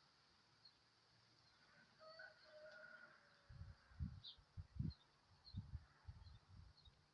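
Faint, distant bird chirps, with a short two-pitched call about two seconds in. Irregular low, muffled thumps follow from about halfway through.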